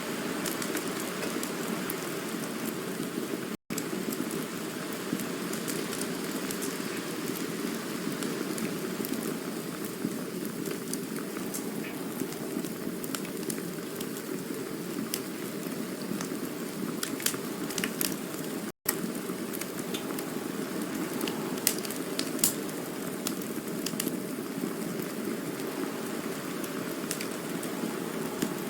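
Campfire burning with a steady hiss and scattered sharp crackles and pops, a few louder pops coming close together past the middle. The sound cuts out for an instant twice.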